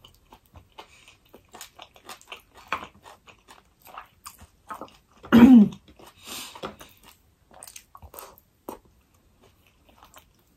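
Close-miked eating sounds of a person chewing food with the mouth: a stream of wet smacks and small clicks, with a short falling hum about five seconds in.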